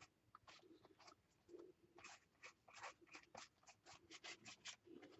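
Faint, quick scratchy strokes of a paintbrush working paint onto a gessoed paper page, a few strokes a second in an uneven rhythm.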